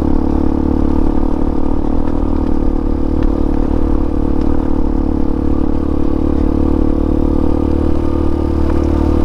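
Hawk 250 dual-sport motorcycle's single-cylinder engine running at a steady speed on a rough trail, with light rattling from the bike over the rocks.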